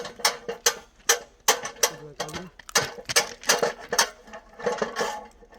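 A rapid, uneven series of sharp mechanical clicks and knocks, about three a second, with a faint voice in the background.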